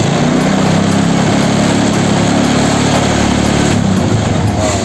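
Honda Supra motorcycle's single-cylinder four-stroke engine running steadily at raised revs for a charging-system voltage check. About three and a half seconds in, the engine note drops.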